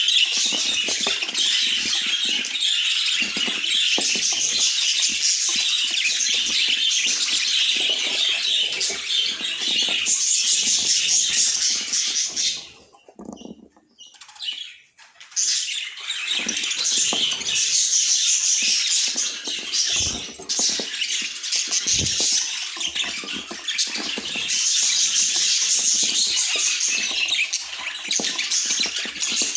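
Budgerigars chirping and chattering nonstop in a dense high-pitched warble, breaking off for a couple of seconds about halfway through.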